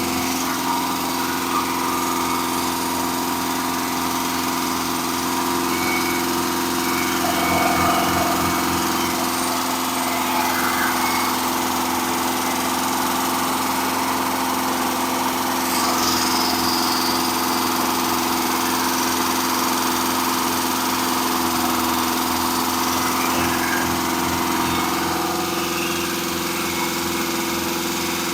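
Engine running steadily during its camshaft break-in.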